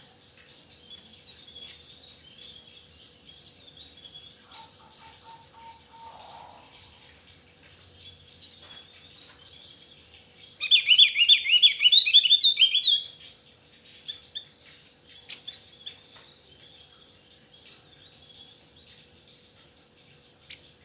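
A songbird calling with faint high chirps. About halfway through it breaks into a loud burst of rapid, high repeated notes lasting a couple of seconds, then goes back to scattered chirps.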